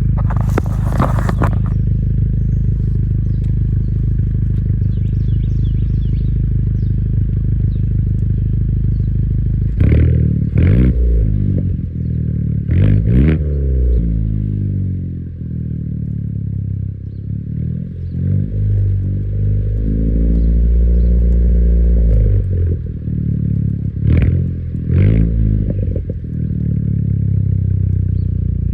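Exhaust of a 2017 Chevy Cruze's turbocharged four-cylinder engine, fitted with a ZZP high-flow downpipe and a Blox Racing N1 muffler, idling steadily and then given light revs: quick blips about ten and thirteen seconds in, a longer hold around twenty seconds, and two more short blips near the end.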